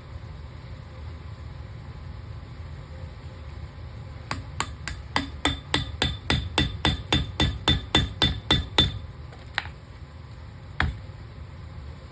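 A hammer striking metal: a quick, even run of about seventeen ringing blows, roughly four a second, then two single blows near the end. A steady low rumble sits underneath.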